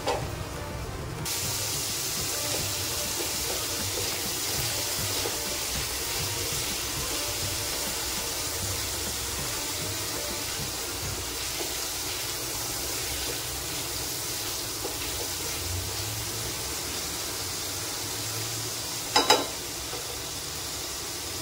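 Paneer frying in ghee in a pan: a steady sizzling hiss that begins suddenly about a second in. There is one brief, sharper and louder sound near the end.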